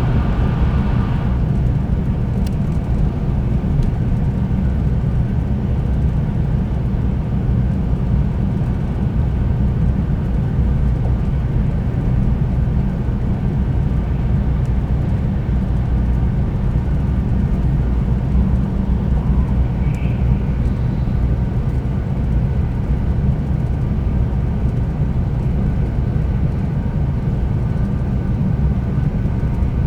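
Cabin noise inside a Tokaido Shinkansen 300-series train running on the line: a steady, loud low rumble of wheels and running gear, with a brief extra rush of hiss in the first second that fades away.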